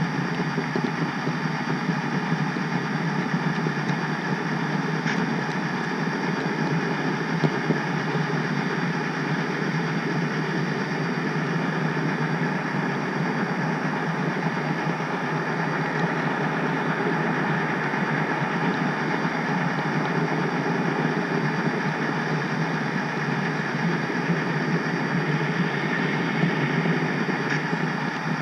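HO scale model train rolling along the track, a steady mechanical rumble with a thin high whine running through it.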